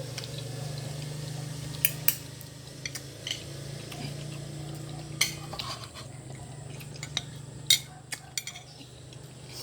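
Cutlery clinking and scraping against a plate while eating, in scattered sharp clicks, over a steady low hum.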